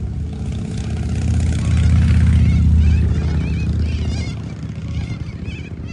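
A motor vehicle driving past, its engine noise swelling to a peak about midway and then fading. White parrots call with short screeches over it near the end.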